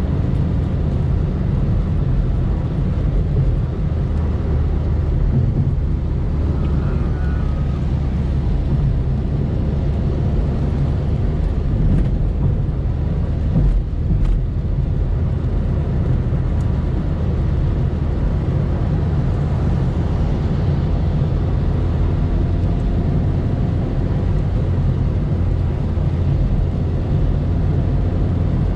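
Car driving at a steady speed: a continuous low engine drone with tyre and road noise, from a Volkswagen Polo diesel.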